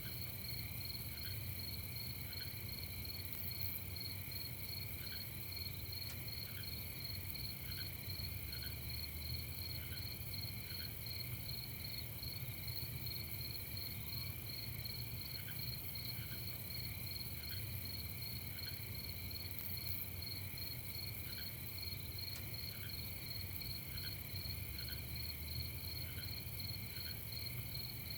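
Night chorus of crickets: a steady, fast-pulsing high trill with a lower continuous band beneath, and another insect's short chirp about once a second. A low steady rumble sits under it.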